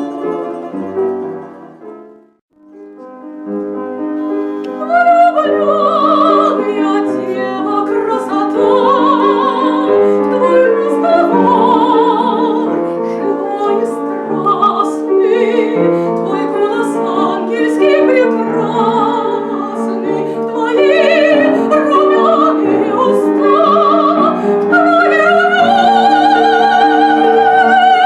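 Classical singing with a high voice and strong vibrato over piano accompaniment. About two seconds in there is a brief pause; the piano starts again, and the voice comes in a couple of seconds later.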